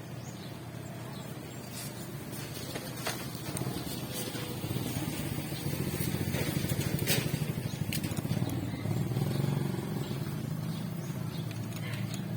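Motorcycle engine running steadily, getting louder through the middle and easing off near the end, with a few sharp clicks over it.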